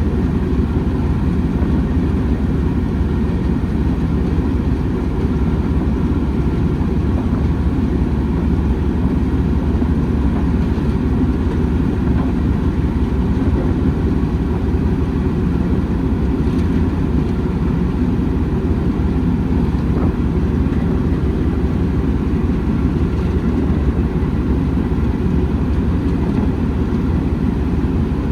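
Steady low rumble of a railway train running, unbroken throughout.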